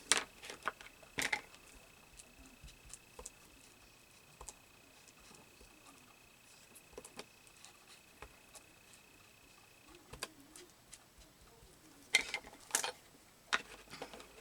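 Scattered light clicks and taps of paper and small craft tools being handled on a tabletop. A faint steady high tone stops about ten seconds in, and there is a cluster of sharper clicks near the end.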